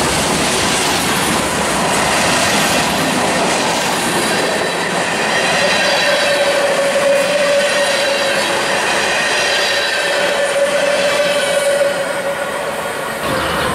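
Freight train cars rolling past with a steady rail clatter. A steady tone with higher overtones comes in about five seconds in and holds for about six seconds.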